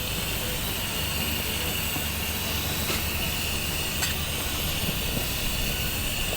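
Corn cooking in bacon grease and water in a cast iron skillet on a camp stove: a steady hiss with a low rumble under it, and a couple of faint ticks.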